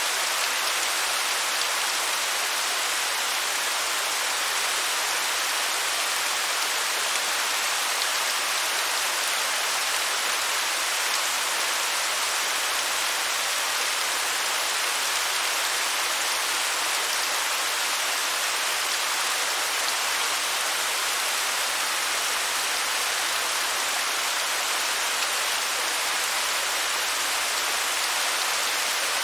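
Waterfall: a steady, even hiss of falling water, mostly high, with little low rumble.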